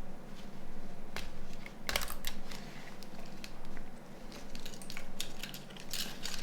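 Irregular small clicks and taps of hands working on the parts of a disassembled Nokia 9210 communicator, with a denser cluster of clicks about two seconds in and again near the end.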